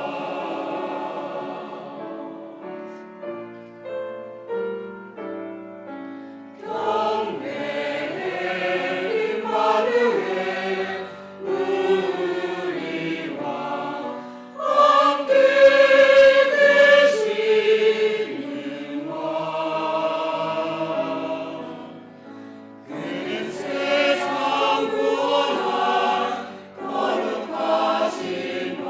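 Church choir singing a Christmas cantata with accompaniment. There is a quieter passage of separate held notes a few seconds in, then the full choir comes back in and carries on.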